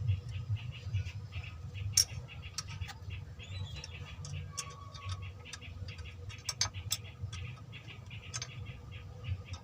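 Mitsubishi 4D56 diesel engine idling: a steady low running sound with a fast, even clatter of about four to five ticks a second. A few sharp metallic clicks stand out over it, the loudest about two seconds in and again near the middle.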